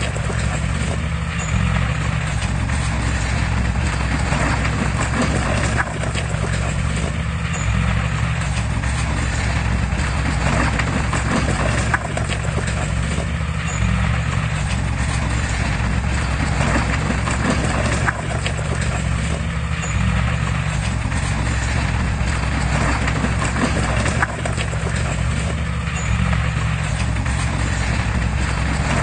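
Heavy diesel earthmoving machine running steadily, with a busy clatter of small knocks over the engine and a swell that comes back about every six seconds.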